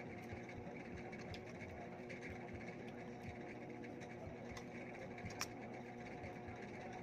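Faint chewing of fried chicken, with small clicks, over a steady mechanical hum. One sharper click comes about five and a half seconds in.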